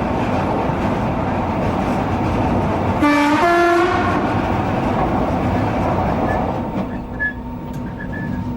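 Electric train running noise heard from the driving cab of a Merseyrail Class 508 unit. About three seconds in, the train's horn sounds one short two-note blast, a lower note and then a higher one. Near the end the running noise gets quieter.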